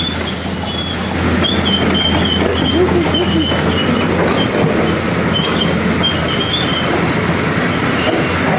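CAT 330D excavator running under test: a steady diesel engine and machine clatter with repeated short, wavering high-pitched squeals of metal on metal.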